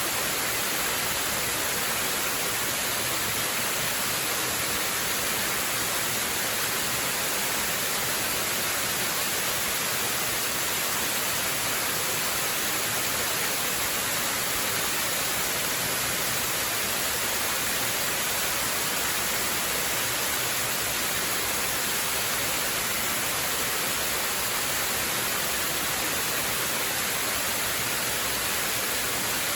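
Waterfall: a steady rush of falling water, an even hiss that sits mostly in the high range.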